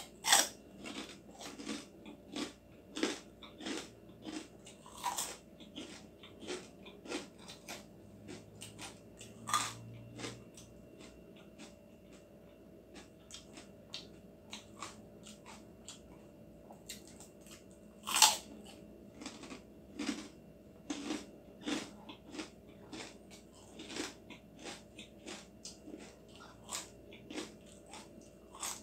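Crispy pork chicharon (pork rinds) being bitten and chewed, a run of irregular sharp crunches with quieter chewing between, the loudest crunch about 18 seconds in.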